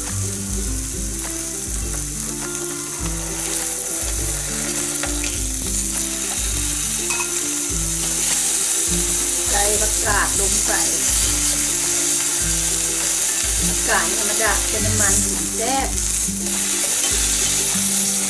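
Sliced meat sizzling on an electric tabletop grill pan, a steady frying hiss, over background music.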